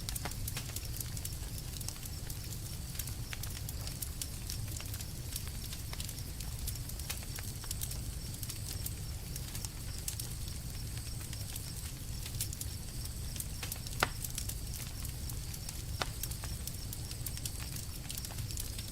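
Wood campfire burning: frequent small crackles and pops over a low steady rumble of the flames, with a sharper pop about 14 seconds in.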